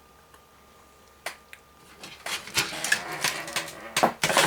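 Hands handling computer case parts: two small clicks, then a busy run of light plastic-and-metal clicking and clattering with a sharper knock near the end.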